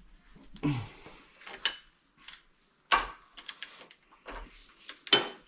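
Steel tools and differential parts clanking and clicking as they are handled, with several separate sharp knocks and a quick run of lighter clicks in between.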